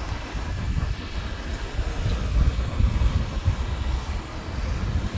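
Storm wind buffeting the microphone in uneven low rumbles over a steady hiss of outdoor street noise.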